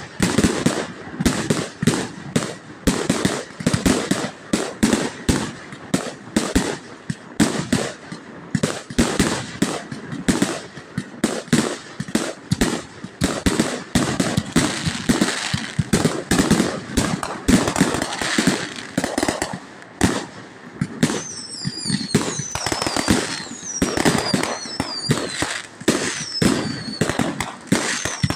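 A fireworks display: a dense, continuous barrage of bangs and crackles. In the last quarter, whistling fireworks add several falling whistles over the bangs.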